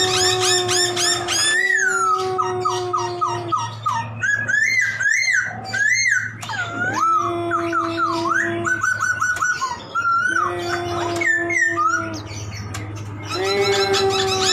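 Poksay (laughingthrush) singing a long varied song: drawn-out level whistles a second or two long, broken up by rapid runs of chirps and looping up-and-down whistles, over a steady low hum.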